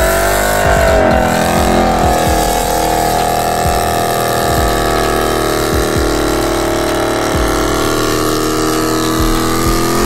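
Dodge Challenger engine revving during a burnout, rising in pitch over the first two seconds and then held at steady high revs while the rear tyres spin.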